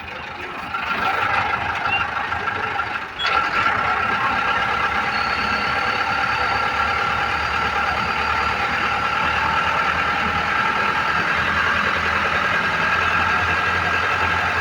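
Vehicle engine running steadily on the move, growing louder about three seconds in and then holding even.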